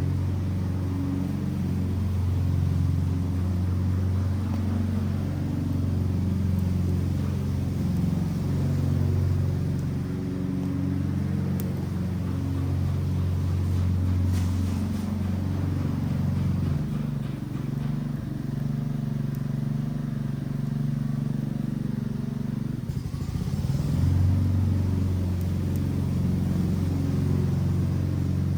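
Wood fire of a burning Adirondack chair, with a few faint crackles over a steady low rumble.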